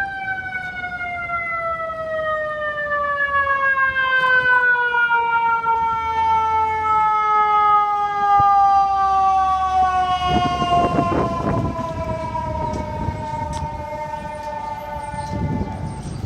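A siren sounding one long, steady tone that slowly falls in pitch, with a low rumbling noise joining about ten seconds in and again near the end.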